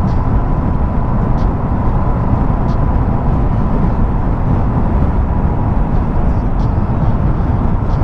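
Motorcycle riding: steady wind rush over the helmet microphone mixed with the running engine.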